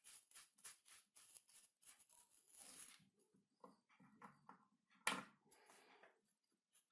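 Faint clicks, taps and scratching from handling small plywood parts by hand, with one louder knock about five seconds in.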